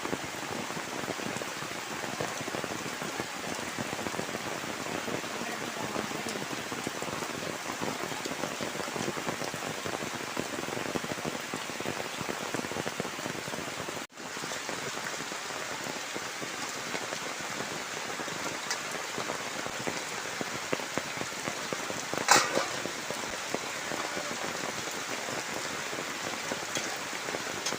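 Heavy rain falling steadily, an even hiss of many drops. It cuts out for a split second about halfway, and a short louder knock stands out a little past two-thirds of the way through.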